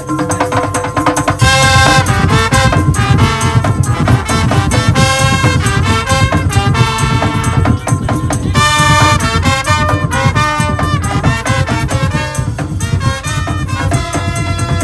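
A Madurese tong-tong music ensemble playing loudly: a fast, driving beat of struck percussion under a pitched melody.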